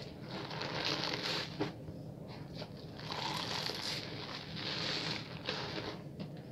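Wet hands lathering a bar of soap: squishy rubbing in runs of quick strokes about a second long, with short pauses between.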